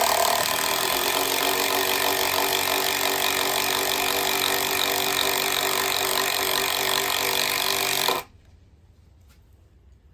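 Bosch PS41 12V max impact driver hammering a 3.5-inch screw into wood, a loud steady rattle under load that cuts off suddenly about eight seconds in as the screw seats.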